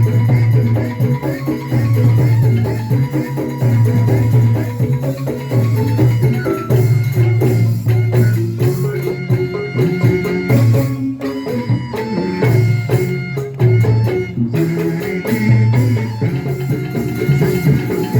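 Live instrumental music with percussion and pitched instruments, over a low bass pulse that recurs about every two seconds.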